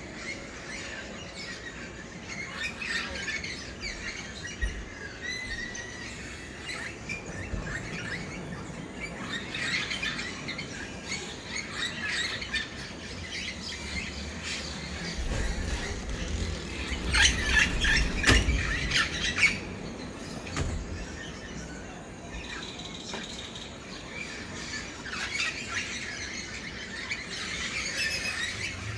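Birds chirping and calling in a steady chorus of short tweets, with a louder flurry of calls over a low rumble a little past halfway.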